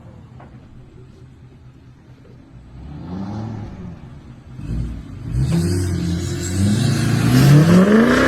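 Pickup truck engine with a loud exhaust revving. It is quiet at first, gives a short rev about three seconds in, then from about five and a half seconds climbs steadily in pitch and grows loud as the truck accelerates.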